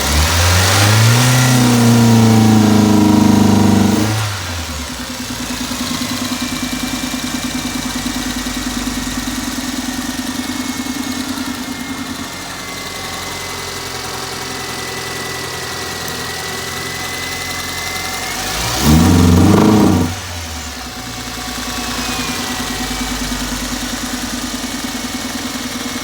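Toyota car engine idling with a misfire, revved up and held for about four seconds at the start, dropping back to a pulsing idle, then blipped once more briefly about three-quarters of the way through before settling back to idle.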